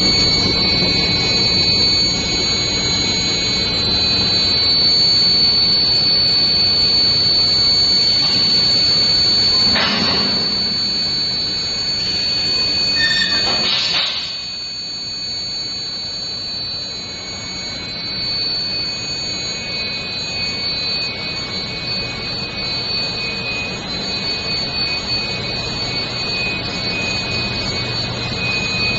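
Steel bar induction heat-treatment furnace running: a steady high-pitched whine of several tones over a constant noise. Two brief bursts come about ten and fourteen seconds in, after which the overall sound is somewhat quieter.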